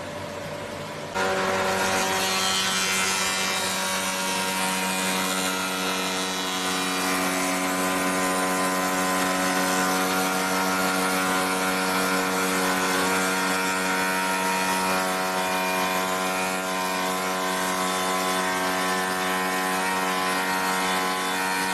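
SH30-2 woodworking milling machine: its cutter runs free with a steady hum, then about a second in it bites into the wood and the sound jumps to a loud, steady whining cut that holds on.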